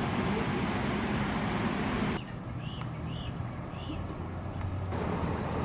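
Steady outdoor background noise with a low hum, like nearby traffic, that drops off abruptly about two seconds in; in the quieter stretch a bird chirps three times, then the louder noise comes back abruptly near the end.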